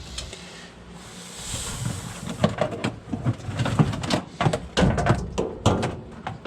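Irregular clicks and light knocks of hands handling the furnace and its parts. They start about two and a half seconds in after a faint hiss and come unevenly for the next few seconds.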